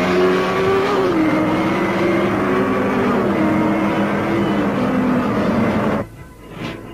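Motorcycle engines running hard in a race, one holding a steady pitch while another rises and falls as it revs. The sound drops away sharply about six seconds in.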